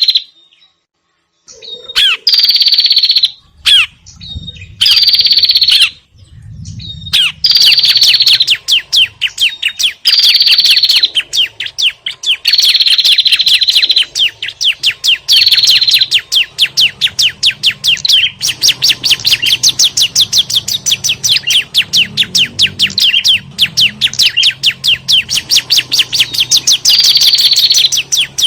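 Recorded bird-lure calls of small songbirds: the agitated, scolding chatter of prenjak mixed with ciblek (bar-winged prinia), played loud. After a brief silence at the start, a rapid run of sharp chirps sets in, several a second, broken by short falling notes, and keeps up without pause.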